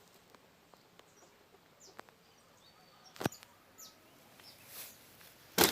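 Quiet outdoor background with a few faint, short bird chirps, broken by two sharp clicks or knocks: one about three seconds in and a louder one near the end.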